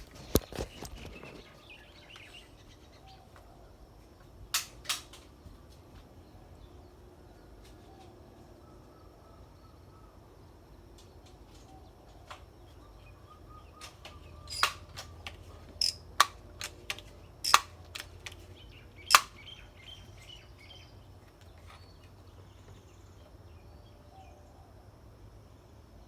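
Faint chirping of wild birds, broken by a series of sharp clicks and snaps: a pair early on and a quick cluster about two-thirds of the way through, the last one the loudest.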